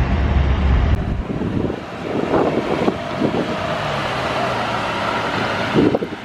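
A car engine running, with a deep low rumble for about the first second, then lighter, higher engine and outdoor sound.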